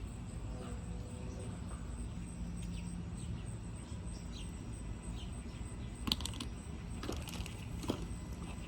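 Small birds chirping intermittently over steady background noise, with a few sharp clicks about six and eight seconds in from plastic lip gloss tubes being handled.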